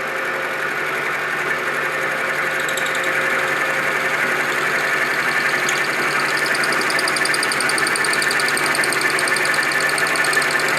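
Belt-driven milling machine running in its lowest belt speed, a half-inch end mill cutting metal, slowly getting louder. A pulsing high whine from the cut joins about six seconds in.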